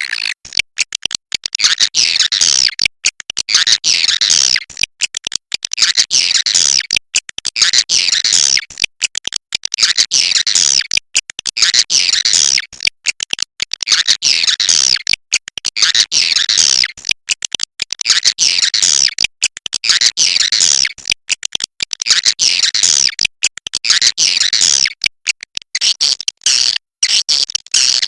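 Swiftlet calls: loud, high, rapid chittering twitters repeated in bursts about every two seconds, with short silent gaps between, the kind of swiftlet call track played to draw the birds.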